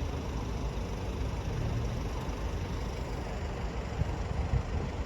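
Steady low rumble of road traffic: car engines running near the level crossing.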